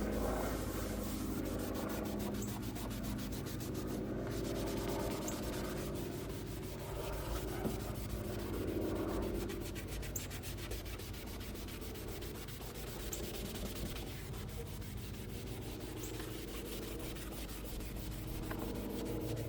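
Scrubbing pad rubbed back and forth over a plastic car headlight lens with cleaning solution, a continuous scratchy rubbing: the scrubbing stage of a headlight restoration.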